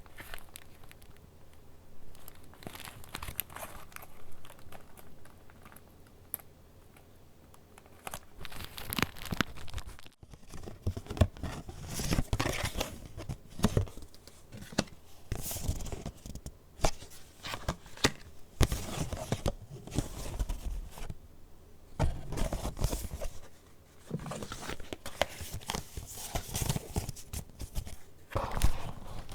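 Paper pages of a handmade junk journal being turned and handled, crinkling and rustling. Sparse for the first eight seconds, then busier and louder, with a brief pause about ten seconds in.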